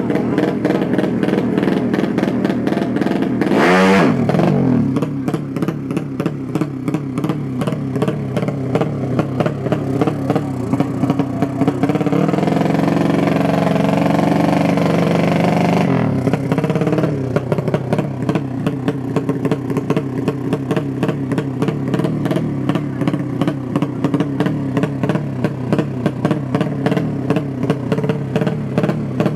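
Motorcycle engine idling with a pulsing beat. It is blipped once about four seconds in, then held at higher revs for about four seconds around the middle before dropping back to idle.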